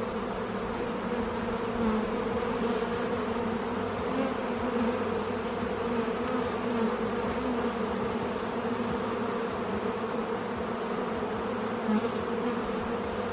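Honeybees in an open hive humming steadily, the even drone of a crowded colony.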